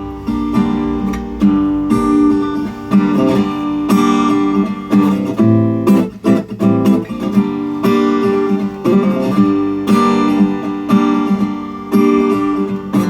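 Guitar strumming chords, played live as the instrumental intro of a song before the vocals come in.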